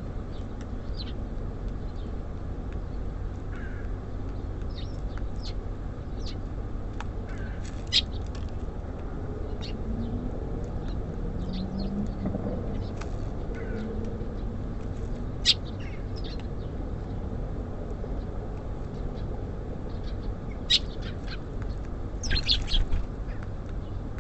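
Small birds at a feeder: scattered short, high chirps and a few sharp clicks, with a quick run of clicks near the end. Under them runs a steady low rumble of city background.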